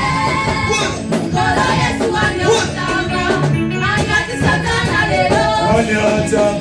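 Live church band playing an upbeat worship song with guitar, bass and percussion between the choir's sung lines, with voices holding notes.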